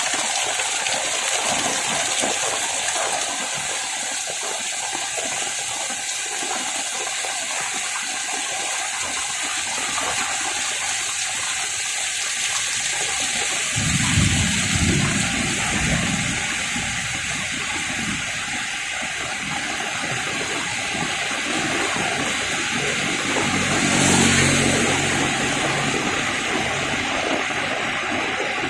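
Heavy rain pouring steadily, a dense even hiss of falling water. A low rumble swells briefly about halfway through and again near the end.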